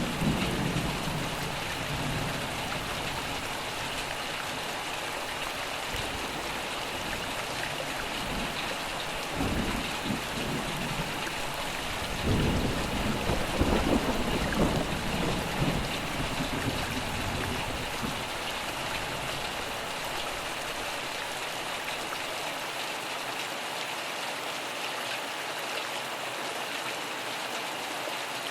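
Steady heavy rain pattering, with rolling thunder: a rumble fading out at the start, another about a third of the way in, and a longer, louder roll through the middle, after which only the rain goes on.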